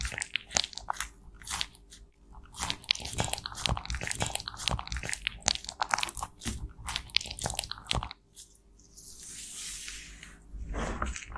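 Close-up crunching and crackling of pressed cosmetic powder being crushed and broken up. There is a short break a little after eight seconds, then a soft hissing scrape, and the crunching returns near the end.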